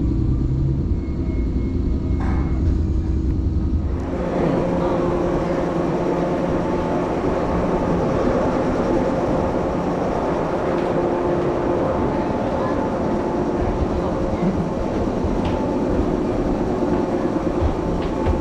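Electric train running, a steady mechanical noise throughout. About four seconds in, a deep rumble gives way to a brighter hum with several held tones.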